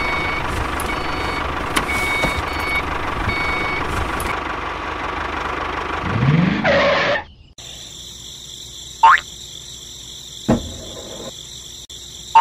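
A mini toy tractor's small motor running steadily, with a short beep repeating about once a second, ending in a rising whoosh. About seven and a half seconds in it gives way to a quieter, steady chorus of crickets and insects with a few short falling chirps.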